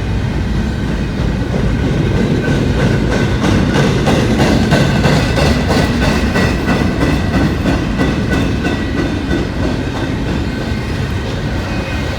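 Freight train cars rolling past close by: a steady rumble of wheels on rail with quick clicking over the rail joints and a faint steady high whine from the wheels.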